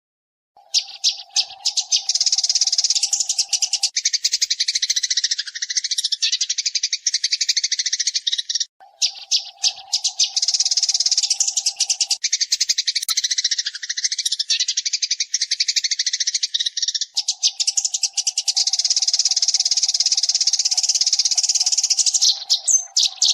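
Eurasian tree sparrows (burung gereja) chirping and chattering in fast, dense runs, played as a masteran recording for tutoring cage birds. The recording cuts in and out abruptly twice, and a steady low drone runs under part of each run.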